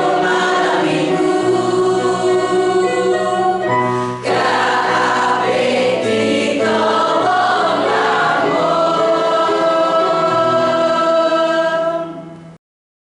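School choir singing in sustained chords, with a short break about four seconds in. The singing fades and then cuts off abruptly about twelve and a half seconds in.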